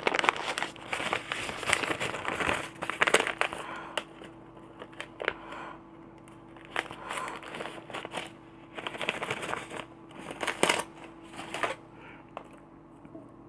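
Hands working on a nebulizer's power cable: irregular crinkling and rustling with sharp clicks and snips, busiest in the first few seconds, then in sparser bursts that die away near the end.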